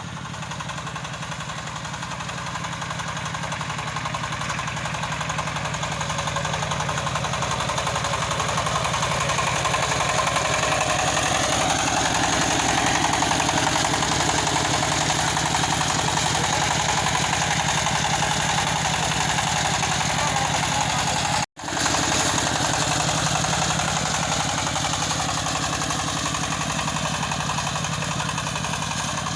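A walking tractor's 20-horsepower engine running steadily with an even firing pulse. It grows louder over the first dozen seconds and then eases off a little, and cuts out abruptly for a split second about 21 seconds in.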